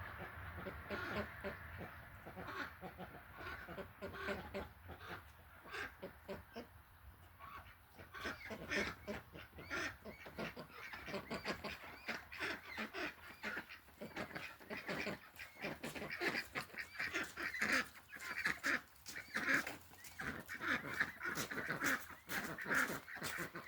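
Domestic fowl calling over and over in short, irregular calls, getting busier and louder about a third of the way in.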